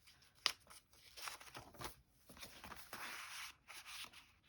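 Paper scraps being handled at a desk: a sharp tap about half a second in, then soft rustling of paper as pieces are shifted and laid down.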